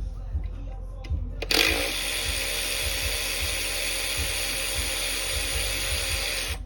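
A handheld power tool spinning steadily for about five seconds, starting about a second and a half in and stopping just before the end, running a small socket on an engine bolt. A few light tool clicks come before it.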